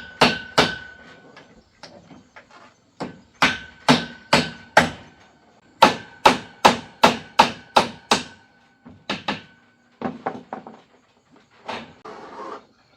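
Hammer driving nails into wood, struck in quick runs of several blows with a slight metallic ring after each strike, then a few lighter taps near the end.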